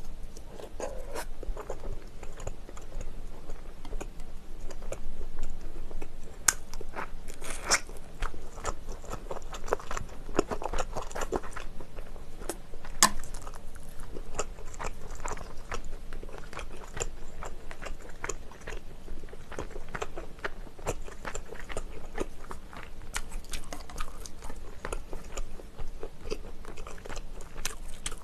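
Close-miked chewing and biting of spicy chicken breast meat: a steady run of wet smacks and crunchy clicks, with a few louder bites partway through.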